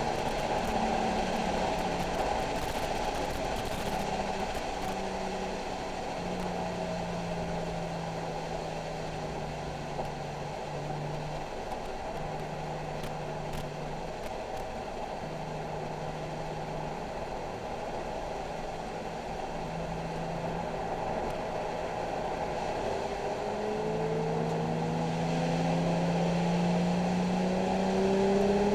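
Nissan 370Z's 3.7-litre V6 engine running at moderate, fairly steady revs, its note dropping in and out with throttle, over a constant hiss of road and tyre noise. In the last few seconds the engine pitch rises steadily as the car accelerates.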